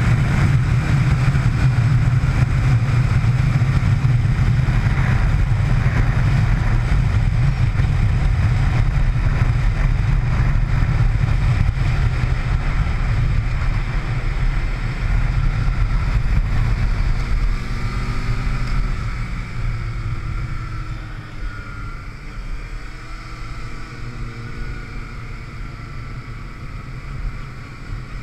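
Motorcycle running at speed, heard from on board with a heavy rushing noise over the engine. About eighteen seconds in the sound gets quieter and the engine's pitch can be heard sliding up and down.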